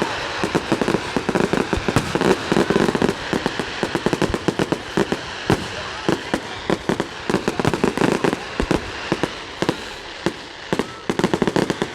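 Fireworks exploding in a dense barrage: rapid cracks and bangs, several a second, overlapping into a continuous crackle.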